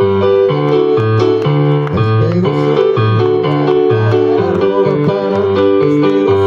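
Keyboard music, with sustained chords over a bass line that changes note about twice a second.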